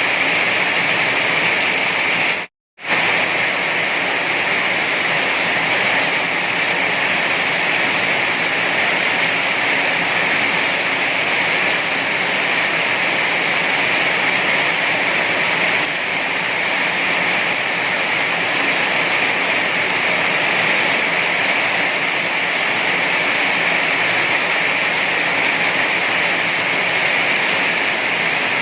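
Heavy rain falling in a steady, unbroken hiss. About two and a half seconds in it cuts out completely for a fraction of a second, then comes back at the same level.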